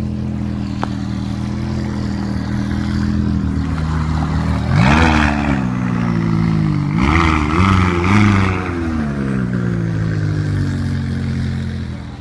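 Car engine idling steadily, then revved: one quick blip about four and a half seconds in and two more close together a couple of seconds later, each falling back to idle. The engine sound drops away near the end.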